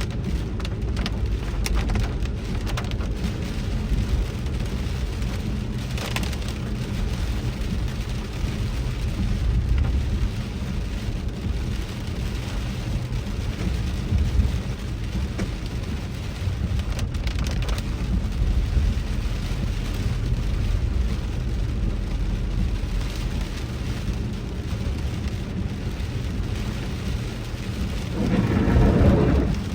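Heavy rain falling on a moving car, heard from inside the cabin over a low road rumble, with scattered sharp clicks of drops hitting. A louder swell comes near the end.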